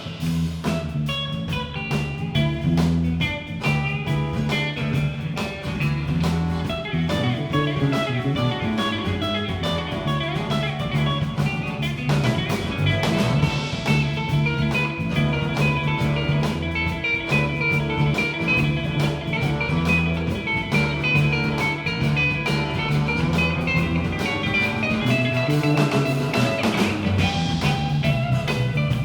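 Live band playing an instrumental break in a blues-rock song: guitar lines over bass and drums, with no singing.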